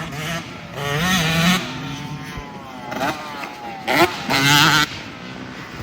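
Motocross dirt bike engines revving hard and passing on the track, the pitch climbing and dropping with each rev. The loudest surges come about a second in and again between four and five seconds in.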